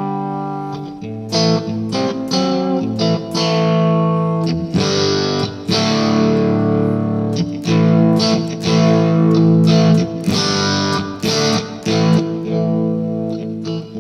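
Electric guitar (a Fender Stratocaster on its bridge pickup) through a 2-watt all-valve amp built around a single 6AF11 Compactron tube, with the volume turned up for more drive and the tone full up. It is mildly overdriven. A chord rings out at the start, followed by strummed chords in a steady rhythm, heard through a load box and speaker cabinet simulation rather than a miked room.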